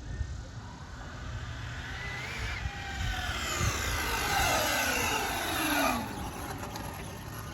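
Brushless electric motor and drivetrain of a 6S Arrma RC car whining under hard acceleration, the pitch climbing and the sound growing louder for several seconds, then cutting off abruptly about six seconds in.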